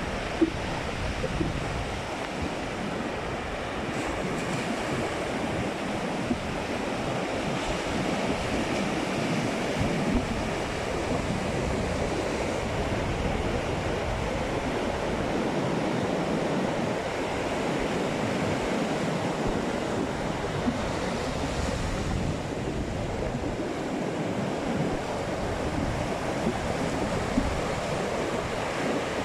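Sea waves breaking and washing on a beach, a steady surf with wind blowing on the microphone.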